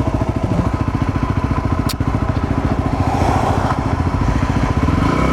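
Yamaha WR250R's 250 cc single-cylinder four-stroke engine running at low revs with an even, rapid pulse, getting a little louder near the end.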